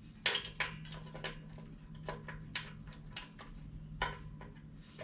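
Scattered small metallic clicks and light knocks of hand tools and screws being worked into a mower's engine shroud, irregular, about eight to ten in five seconds, over a faint steady high hum.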